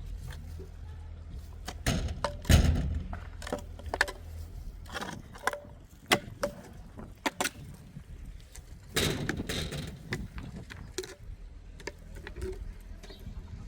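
Irregular knocks and clicks of objects being handled, with a heavy thump about two and a half seconds in and a rough scraping noise about nine seconds in.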